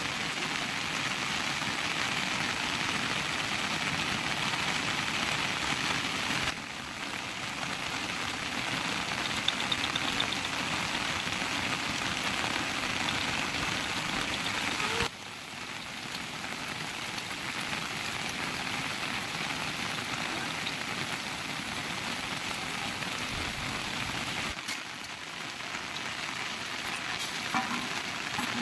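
Steady rain falling, an even hiss with no let-up, whose level shifts abruptly three times.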